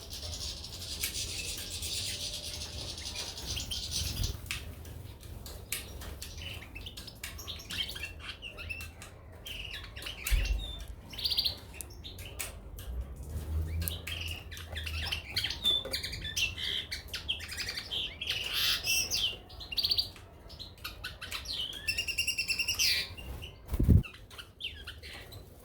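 Caged goldfinches and canaries chirping and twittering, with short wing flutters and small clicks. There is a dull thump about ten seconds in and another near the end.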